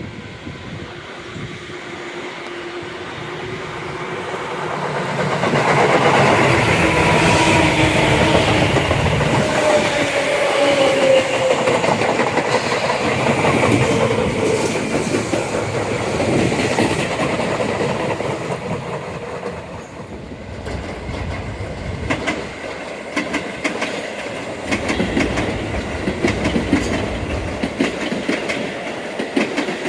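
Electric commuter train passing close by. Its motor whine falls in pitch as it goes by, loudest about a third of the way in. The wheels then clatter over rail joints in a steady rhythm as the cars run past.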